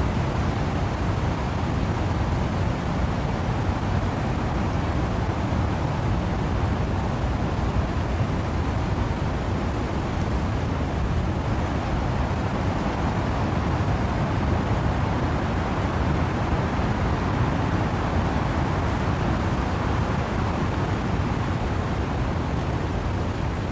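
Wind and rain in trees, a steady, unbroken rushing noise with a deep rumble underneath; no single drops, gusts or other events stand out.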